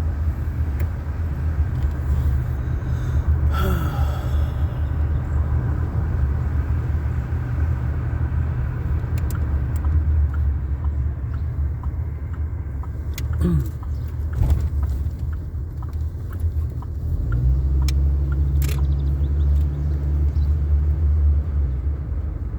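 Car driving, heard from inside the cabin: a steady low rumble of engine and road noise that grows a little louder and steadier about 17 seconds in, with a few faint clicks and knocks.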